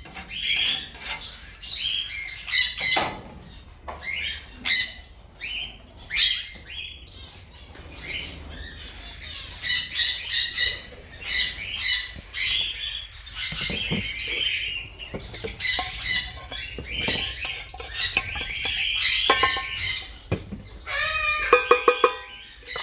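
A flock of parrots squawking: many short, harsh calls repeating over each other. Near the end a lower run of quick pitched calls comes in.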